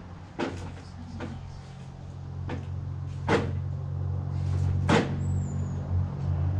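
Metal hand tools clinking and knocking about five times as they are handled and set down while hunting for the right size, over a steady low hum that grows louder partway through.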